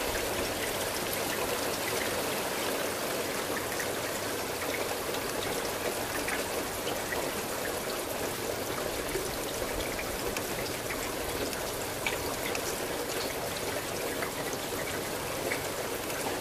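Steady rain with scattered individual drops ticking, and a trickling run-off of water.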